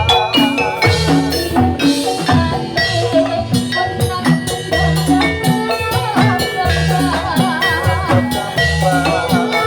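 Javanese gamelan music for a jathilan dance, with struck metallophone notes over a steady drum pattern, played loud through a sound system.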